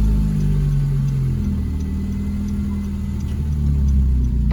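A 2012 Honda Civic Si's four-cylinder engine running at low speed as the car creeps along, its pitch shifting slightly about a second and a half in.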